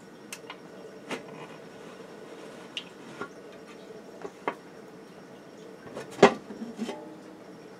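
A pressure canner being opened and handled: a string of light metal and glass clinks and knocks, with one louder clank about six seconds in.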